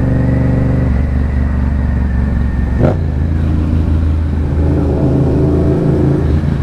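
Motorcycle engine running while being ridden, its note shifting about a second in and again partway through, with one sharp click just before the midpoint.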